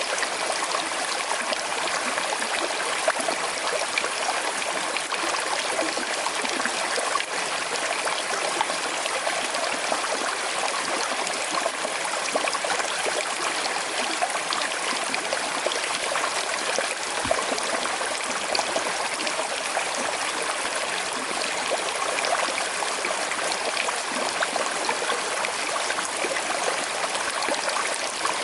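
Small river flowing steadily with a slight current: continuous babbling and trickling of water over stones.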